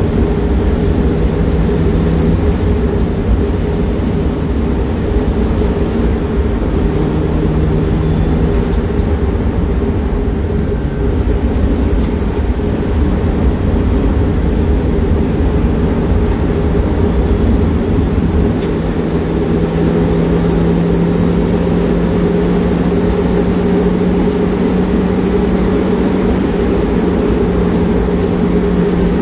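Turbocharged Mazda MX-5's four-cylinder engine running at speed, heard from inside the cabin over heavy road and wind noise. It is a steady drone whose pitch shifts a little now and then.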